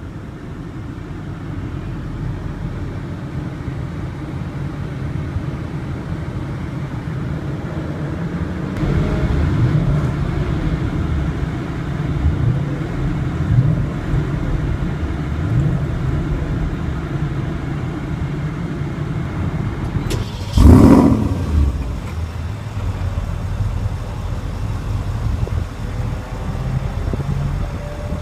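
2014 Porsche Cayenne GTS's 4.8-litre V8 running just after start-up: it idles steadily for several seconds, then is blipped several times in quick succession, rising and falling in pitch. About twenty seconds in comes one short, very loud rev, the loudest moment, and another rev begins at the very end.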